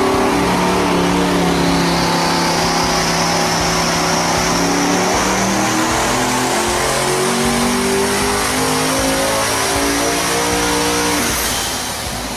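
High-performance car engine running hard under acceleration, its note holding and stepping up in pitch, with a high whine rising slowly over it. The sound eases off a little after eleven seconds.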